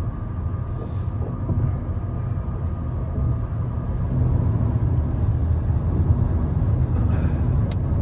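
Steady low rumble of road and engine noise inside a moving Honda Civic's cabin, with a couple of brief faint hisses.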